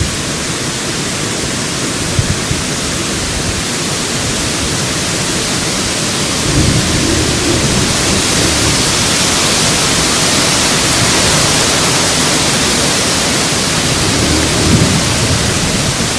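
Loud, steady rushing noise of wind on the microphone and water while a small trimaran is under sail, swelling a little in the middle.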